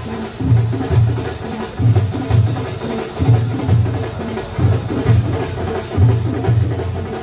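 Percussion music, with heavy low drum beats recurring about once or twice a second over busier, lighter strokes.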